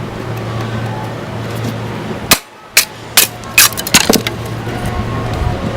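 A steady low hum, then, after a brief drop-out about halfway through, a quick run of about six sharp clicks and knocks.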